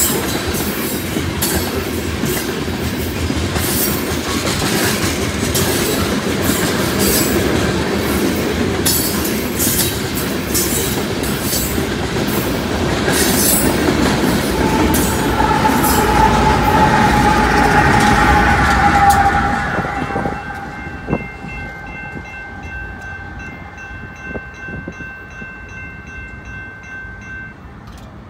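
Loaded coal train's hopper cars rolling past with a steady rumble and rhythmic wheel clicks over the rail joints. About 15 seconds in, a trailing locomotive passes, the loudest moment, with a whine that drops slightly in pitch. As the train fades, grade-crossing warning bells ring steadily.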